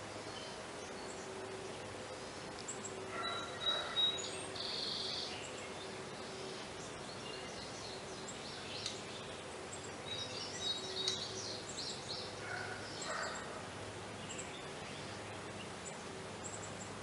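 Outdoor ambience with a steady low hum, broken by scattered short, high bird chirps and calls in two clusters: a few seconds in and again past the middle.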